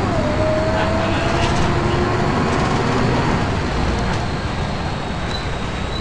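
Volvo B10BLE single-deck bus running, with engine and road rumble and a strange high-pitched whine over it. One whine falls in pitch just at the start and then holds level, and a thin, very high tone runs steadily.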